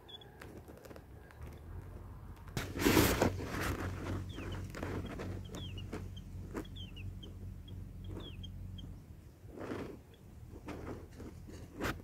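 Small birds giving short, high chirps again and again, over a steady low hum, with a louder noisy burst about three seconds in and a few shorter ones near the end.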